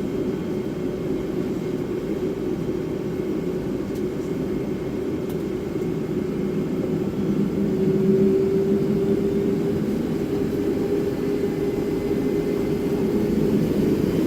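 Cabin sound inside a Boeing 757-300 on the ground before takeoff: the jet engines run at low power, a steady hum with a faint tone, growing a little louder about halfway through.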